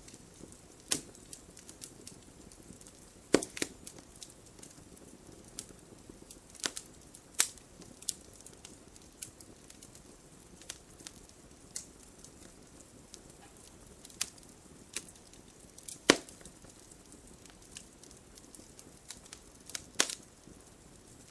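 Wood fire burning in a fireplace, with irregular sharp crackles and pops from the logs over a low steady hiss. The loudest snaps come a little after three seconds, around seven seconds and about sixteen seconds in.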